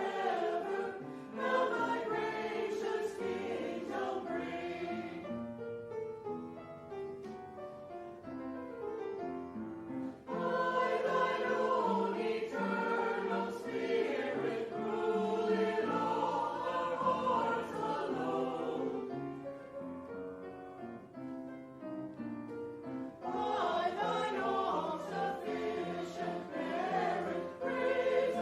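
A choir singing a sustained, slow-moving piece in several parts, swelling and softening between phrases.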